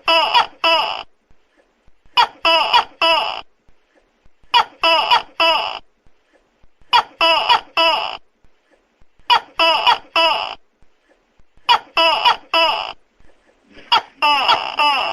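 Tokay gecko calling loudly, short calls in quick groups of about three, each group repeating roughly every two and a half seconds.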